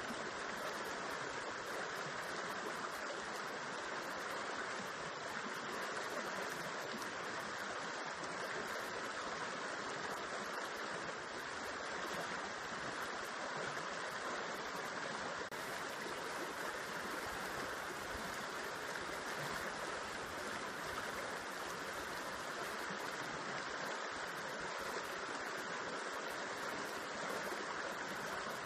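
River water flowing and spilling over rocks into a pool, a steady rushing with no change.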